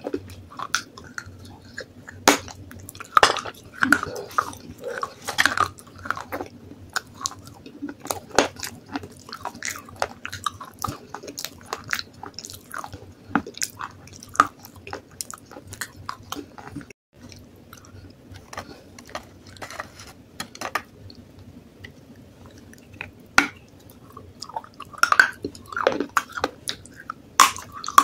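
Close-up biting, crunching and chewing of pieces of baked clay pot, with sharp, irregular crunches.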